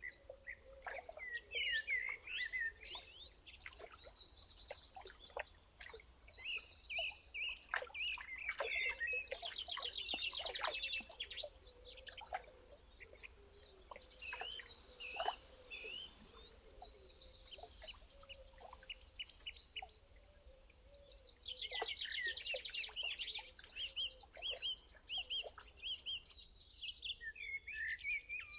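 Songbirds singing, one repeating a short, fast trilled phrase every few seconds, with scattered chips and calls from other birds in between.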